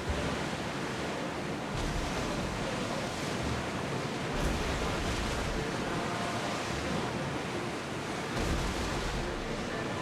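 Sea waves washing in a steady rush, with wind gusting on the microphone as a low rumble that comes and goes.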